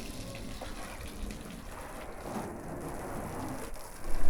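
Water spattering steadily onto a car's bodywork, a rain-like hiss of spray and drops, growing louder about four seconds in.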